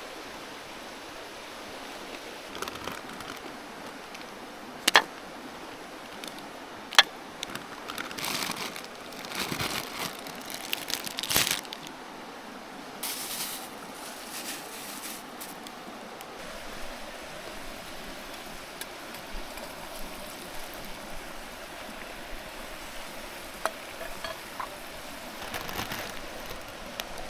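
River flowing steadily, with a few sharp clicks and clinks and short rustling bursts from camp gear being handled.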